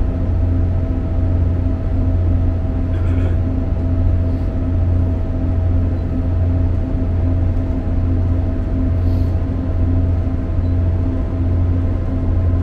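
Inside a diesel multiple unit's carriage at speed: a steady low engine drone and the rumble of wheels on the track, with a constant hum above it.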